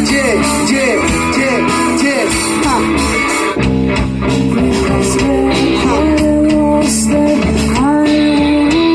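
Live rock band playing an instrumental passage, with electric guitar lines bending in pitch over drums and bass.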